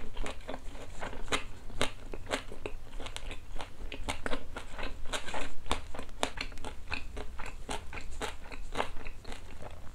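Close-miked chewing of a mouthful of bossam (boiled pork with kimchi and salted napa cabbage): a steady run of crisp crunches and wet mouth clicks, several a second.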